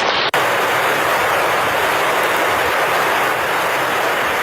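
Steady loud rushing noise of water in a flood after a downpour, broken by a brief dropout about a third of a second in.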